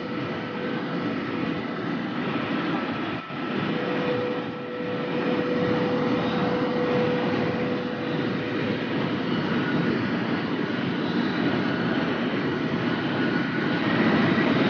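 High-speed electric train running at about 500 km/h: a steady rush of wind and rolling noise with faint whining tones, growing slightly louder toward the end.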